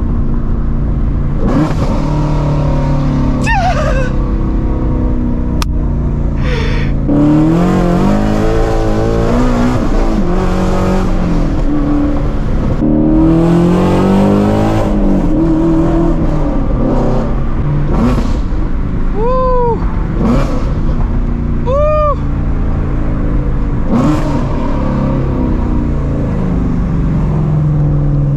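Shelby GT350's 5.2-litre flat-plane-crank V8, breathing through catless long-tube headers, revving up and down in pitch through pulls around the middle and running steadily at lower revs before and after.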